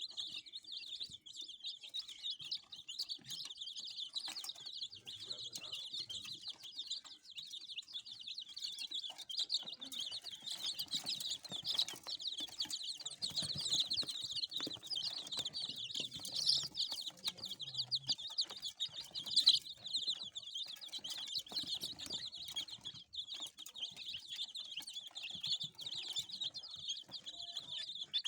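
A flock of Aseel chicks peeping continuously, a dense, high chorus of overlapping cheeps, with scattered light ticks and rustles as they feed.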